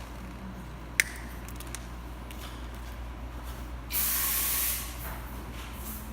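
A sharp click, then about four seconds in a short hiss of spray lasting just under a second, over a steady low hum.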